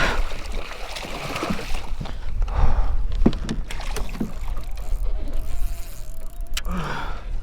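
Wind rumbling on the microphone, with several sharp knocks against a kayak as a striped bass is brought aboard.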